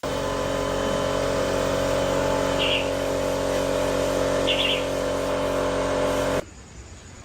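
Small motorbike engine running at a steady idle, holding one even pitch, then stopping abruptly about six seconds in.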